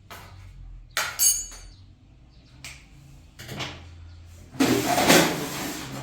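Objects being handled indoors: a sharp clink that rings briefly about a second in, a couple of light knocks, then a loud scraping rustle for the last second and a half.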